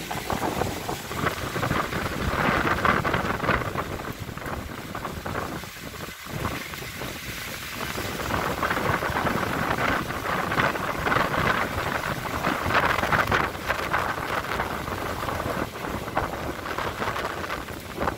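Strong gusting wind thrashing through trees and leaves, with wind buffeting the microphone. It swells and eases, dips briefly about six seconds in, then builds again.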